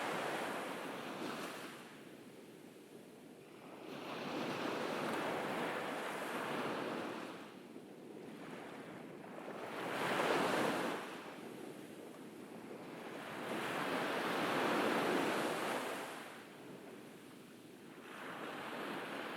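Ocean waves breaking on a beach. Each wash surges and falls away, about every five seconds.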